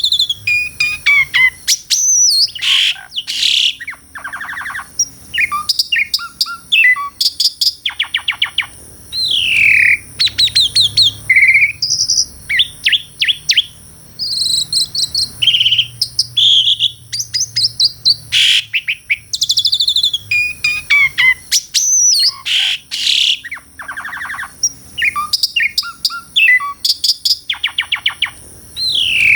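Asian pied starling (jalak suren) singing a long, varied song of loud whistles, rising and falling glides and rapid rattling clicks, with short pauses between phrases.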